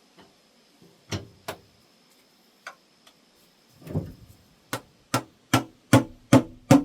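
Hammer blows on the engine's oil pan, knocking it loose: a few separate knocks, a duller thud, then a steady run of strikes about two and a half a second that grow louder toward the end.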